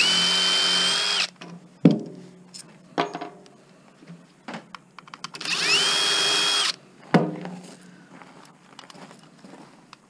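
Cordless drill-driver spinning fasteners out in two bursts, one at the start and one about six seconds in, each a whine that rises quickly and then holds steady. Between the bursts come sharp metal knocks and clatter as the parts are handled.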